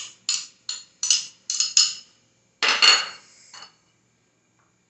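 Spoon clinking against a dish of chopped vegetables as corn and peas are added: about seven quick knocks, then a longer, louder clatter about three seconds in and one last light tap.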